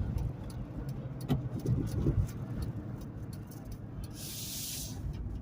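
Car interior noise while driving on a winter road: a steady low road rumble with scattered light ticks, and a brief hiss lasting under a second about four seconds in.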